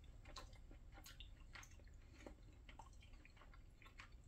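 Faint chewing of a bite of Salisbury steak: soft, irregular mouth clicks and wet smacks, otherwise near silence.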